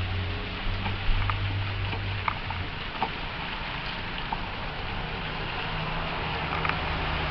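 Steady hiss of a hail storm with scattered sharp ticks of hailstones striking hard surfaces. A low engine hum of passing traffic fades about two and a half seconds in and returns near the end.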